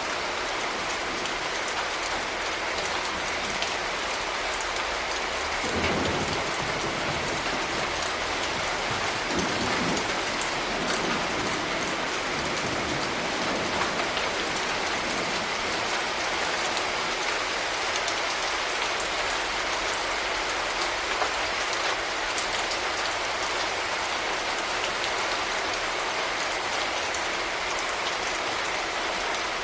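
Steady rain falling, with a short low rumble about six seconds in and another around ten seconds.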